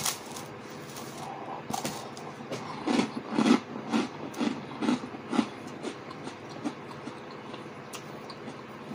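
A person chewing a mouthful of toast: a series of short chewing sounds, about two or three a second, thickest in the middle and thinning out toward the end, over a steady hum.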